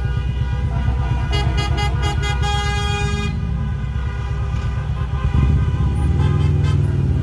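Many car horns honking at once in a large vehicle convoy, several held tones overlapping. About a second in, one horn gives about five quick beeps and then a longer blast. Underneath runs a low rumble of engines, which grows louder about five seconds in.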